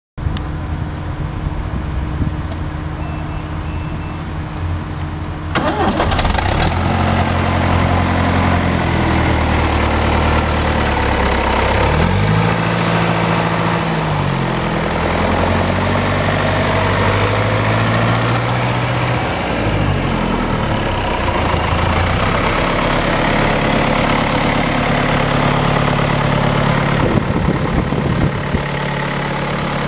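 John Deere 2350 tractor's diesel engine running: it idles, grows suddenly louder about five seconds in, then revs up and down several times before settling back to a steady run.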